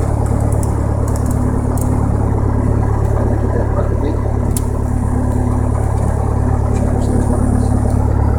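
Light aircraft's piston engine running steadily at low power, heard from inside the cockpit.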